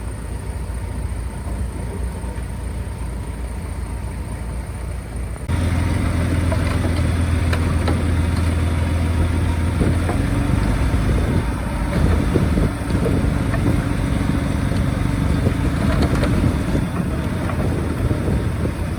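Bulldozer's diesel engine running steadily, stepping up abruptly to a louder, heavier drone about five and a half seconds in, with many small clanks over it.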